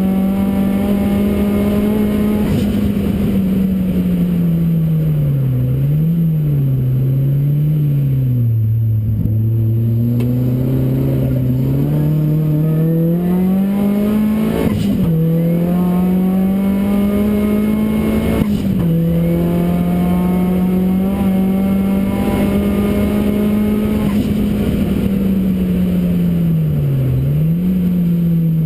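Ford Racing Puma's modified Focus RS engine running hard on track, its revs climbing under acceleration and dropping sharply at gear changes, with lower, wavering revs during a slower stretch.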